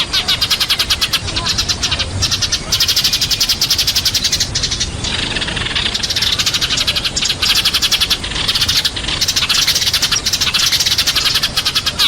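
Sparrows chirping in a rapid, dense chatter of many overlapping chirps, broken by a few brief pauses. This is sparrow flock-calling, the kind of chatter used as a lure call to draw a flock in.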